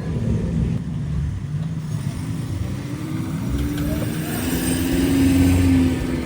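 Car engine running, its pitch rising and then falling once, with a swell in loudness about five seconds in.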